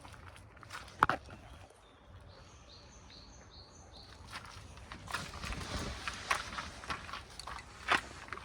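Sharp knocks and clicks with rustling, as of things being handled, the loudest about a second in and near the end. A small bird chirps a quick series of high notes in the middle.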